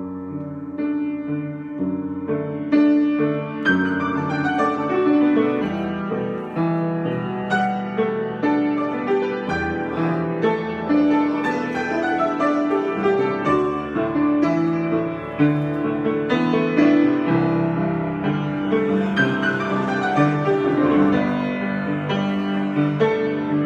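Solo piano playing an improvisation: a continuous stream of struck notes and chords with a steady pulse.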